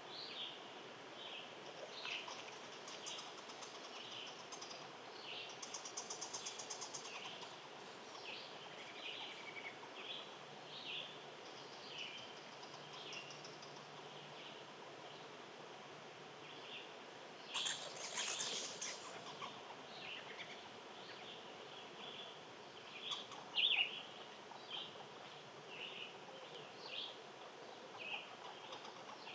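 Small songbirds chirping with many short calls, a rapid trill about six seconds in, a louder, noisier burst around eighteen seconds in and a sharp loud chirp near twenty-four seconds.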